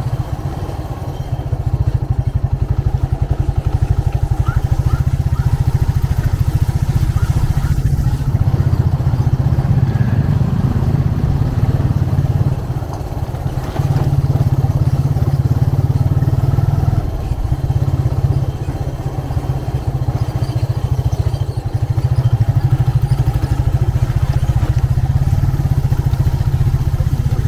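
Motorcycle engine running steadily under the rider, its low rumble easing off briefly several times.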